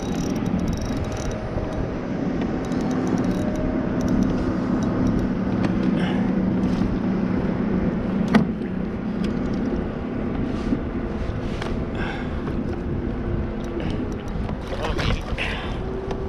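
Steady low motor hum that fades near the end, under noise, with a few sharp clicks, the strongest about halfway through.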